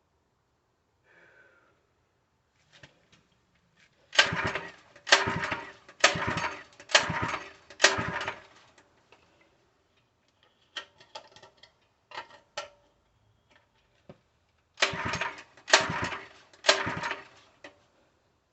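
Harbor Freight 3 HP small engine's recoil starter being yanked over and over, five quick pulls about a second apart, then three more near the end. The engine turns over but doesn't fire: a no-start that the owner puts down to fuel delivery.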